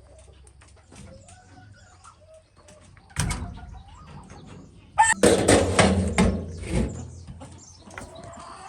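Chickens clucking softly, with loud noisy bursts about three seconds in and again from about five seconds in.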